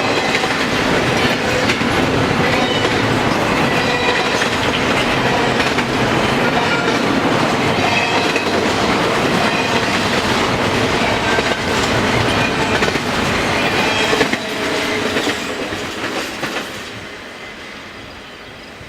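Freight train cars rolling past, their wheels clicking over the rail joints with short, faint wheel squeals. The sound fades away in the last few seconds as the cars go by.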